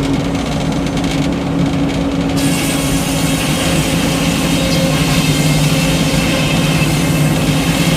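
Frick sawmill running: the engine drones steadily, and about two seconds in a high hiss joins it as the circular blade cuts into a white pine log, carrying on to the end.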